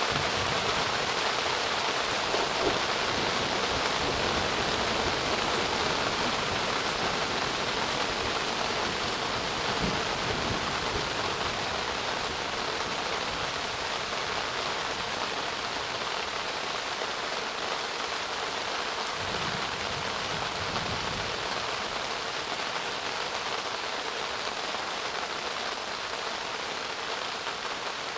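Rain falling steadily in an even, dense hiss, easing slightly toward the end.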